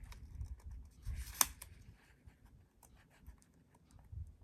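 Paper and sticker sheet being handled: light rustling with scattered small clicks and one sharper click about a second and a half in.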